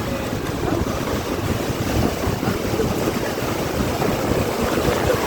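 Storm wind and rain: a steady rushing noise with low rumbling gusts of wind buffeting the microphone.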